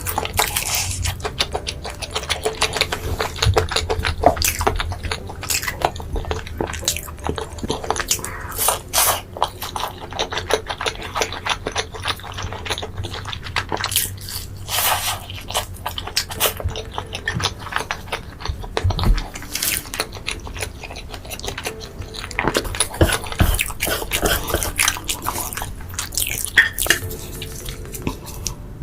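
Close-miked mukbang eating sounds: chewing, biting and wet mouth smacking, a dense run of irregular clicks and crackles.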